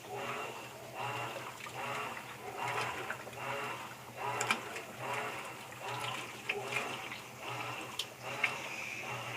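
Whirlpool 14 kg top-load washing machine agitating a wash load: water churning and sloshing in rhythmic surges about one and a half times a second, over a steady low hum, with a few sharp clicks. The agitation is slow, which the owner takes for a machine with too little washing force, not normal.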